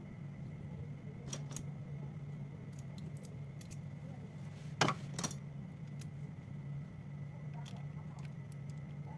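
Scattered small clicks and taps of metal tools and phone parts being handled during a phone teardown, with one sharper click about five seconds in and another just after, over a steady low hum.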